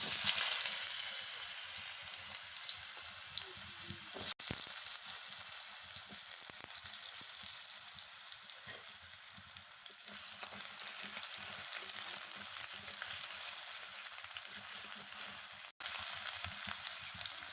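Potato pieces frying in hot oil in a kadai: a steady sizzle, broken by two brief dropouts, one about four seconds in and one near the end.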